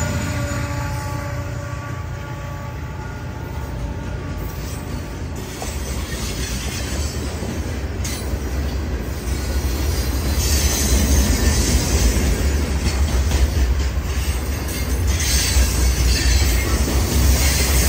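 Freight train's hopper cars rolling past at close range: a steady rumble of steel wheels on rail. The departing diesel locomotive's engine tones fade out over the first few seconds, and the rumble grows louder and rougher from about ten seconds in.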